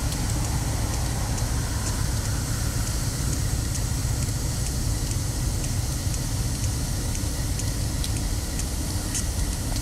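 A passing train: a steady low rumble with faint scattered clicks.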